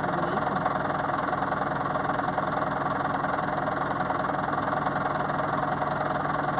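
An engine idling steadily, with an even low pulse and no change throughout.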